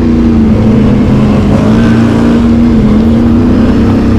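Can-Am Outlander ATV's V-twin engine running steadily at low speed, with a slight rise and fall in pitch.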